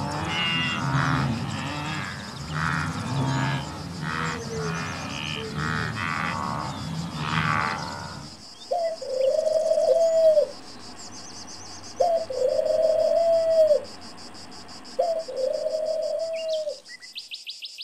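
Wildebeest grunting and braying in quick, repeated calls, then about eight seconds in a dove cooing: three long, even coos a few seconds apart.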